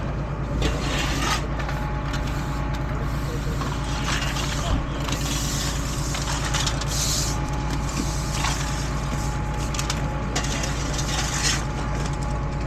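A truck engine idling steadily, its low even rumble under a constant hiss, with a few faint clanks.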